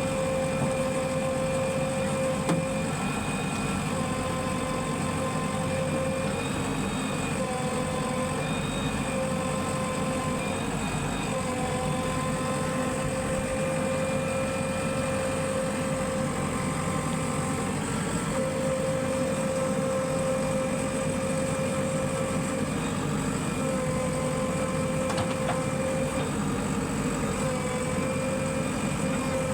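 Vehicle engine running steadily, with a high whine that holds one pitch and dips briefly every few seconds.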